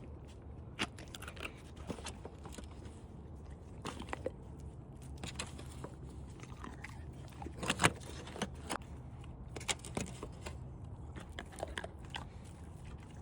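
Dogs chewing and crunching frozen raw beef dog food: irregular crunches and clicks, the loudest about eight seconds in, over a low steady hum.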